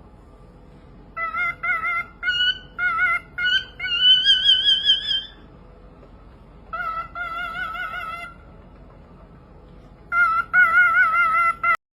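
A bird calling in loud, pitched, wavering notes: a run of short notes, then one long rising note about four seconds in, another held warbling call around seven seconds, and a last group of calls near the end, with pauses between.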